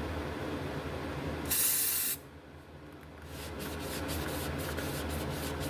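Aerosol brake cleaner sprayed in one short hissing burst of about half a second, followed a second or so later by a rag rubbing in quick repeated strokes, wiping the freshly fitted flywheel clean.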